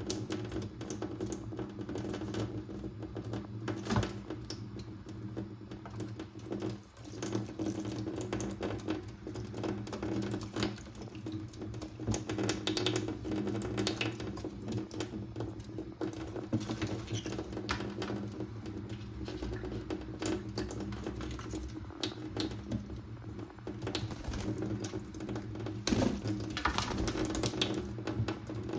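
Conures bathing in water: a dense, irregular patter of small splashes and wing flutters, over a steady low hum.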